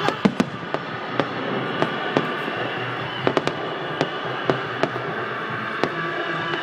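Fireworks going off, about a dozen sharp, irregular bangs and pops over steady background music.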